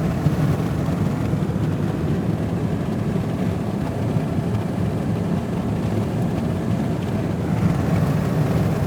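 Pickup truck driving on the road, a steady, unbroken drone of engine and road noise.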